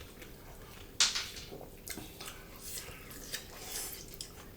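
Mukbang eating sounds: a brief sharp noise about a second in, then quiet chewing with small clicks of food and dishes.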